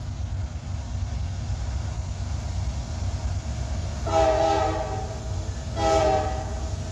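Freight locomotive's air horn sounding two blasts, a longer one about four seconds in and a shorter one near the end, each a steady chord of several tones, over a steady low rumble of the approaching train.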